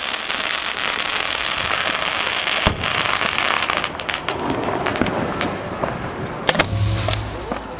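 Fireworks going off close at hand, heard from the firing barge: a dense crackling hiss with a sharp bang about two and a half seconds in. After about four seconds the crackle thins out into scattered sharp cracks.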